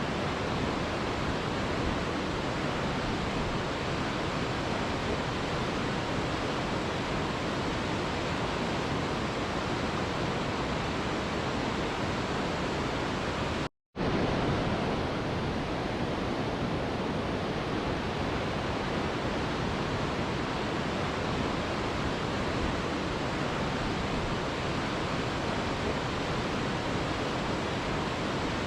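Mountain river flowing: a steady, dense rush of water noise, broken by a split-second drop to silence about halfway through.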